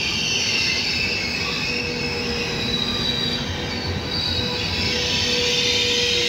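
Trenitalia Intercity passenger coaches rolling into the station, with several high-pitched wheel squeals wavering over a steady low rumble as the arriving train slows.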